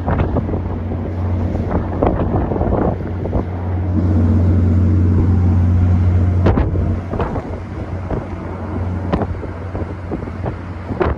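Wind buffeting the microphone in irregular gusts, over a steady low engine-like drone that swells louder for a couple of seconds midway and then drops back.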